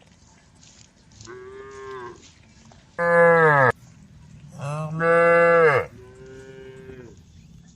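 Cows mooing: four drawn-out moos, each dropping in pitch at the end, the two in the middle loud and close and the first and last fainter.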